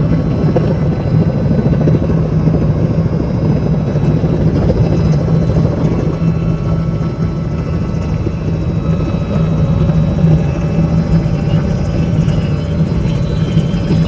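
Helicopter in flight, its rotor and engine giving a loud, steady drone with a strong low hum.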